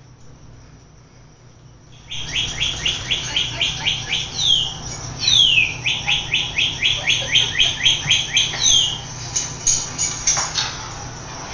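A toy bird playing recorded birdsong: a rapid run of chirps with a few longer falling whistles, starting abruptly about two seconds in.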